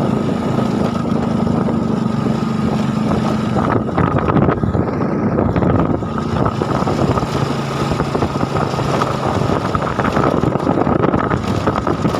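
Small motorcycle engine running while riding, its pitch stepping down about four seconds in and shifting again a few seconds later, with wind buffeting the microphone.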